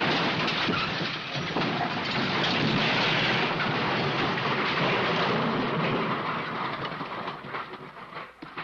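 Crash sound effect: a sudden start into a long, dense clatter of breaking and tumbling debris, fading about seven seconds in to scattered small impacts as the pieces settle.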